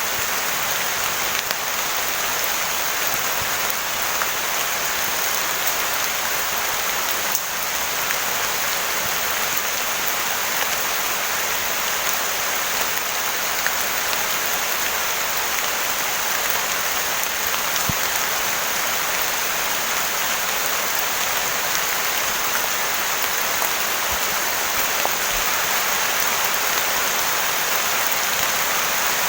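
Heavy rain pouring steadily: a dense, even hiss with faint scattered drop ticks.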